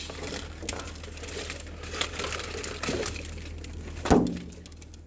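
Rustling and crinkling with scattered small clicks as something is opened and handled, with a sharp knock about four seconds in.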